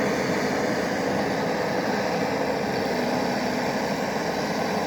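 Steady mechanical hum of a motor or engine running, unchanging throughout.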